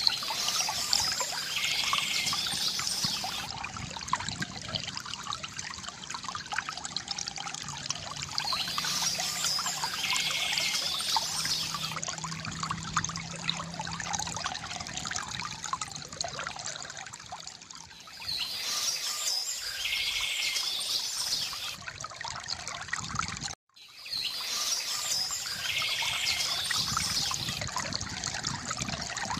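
Small stream trickling and splashing steadily, with a bird singing in phrases about three seconds long, four times. The sound drops out for a moment about two-thirds of the way through.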